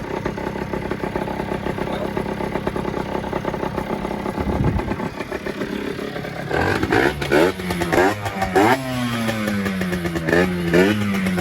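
50cc motorcycle engine idling steadily, then revved in several quick, sharp blips from about six and a half seconds in, its pitch rising and falling.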